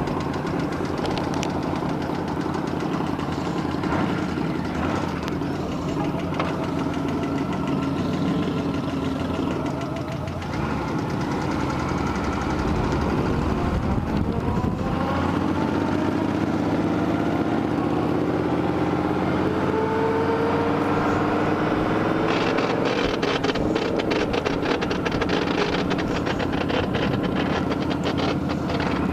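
Honda Gold Wing GL1500 motorcycle's flat-six engine running under way, its pitch climbing as it accelerates, dipping at a gear change about three-quarters of the way through, then climbing again.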